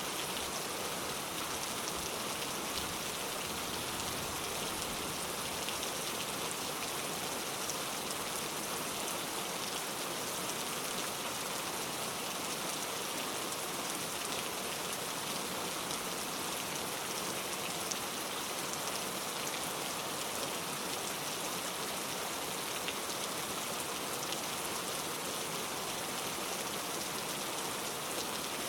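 Steady, even rainfall, a constant hiss of falling rain with fine drop patter.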